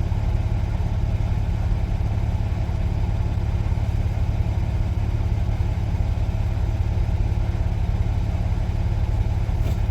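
Semi truck's diesel engine running steadily at low speed, a deep, even rumble.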